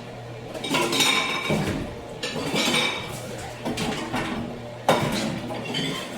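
Metal spoon stirring and scraping in a cooking pot, in bouts, with clinks against the pot's sides and one sharp knock about five seconds in. A steady low hum runs underneath.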